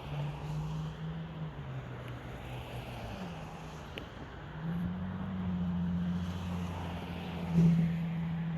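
A steady low engine hum that drops in pitch about three seconds in, then comes back stronger and higher and swells near the end, with wind on the microphone.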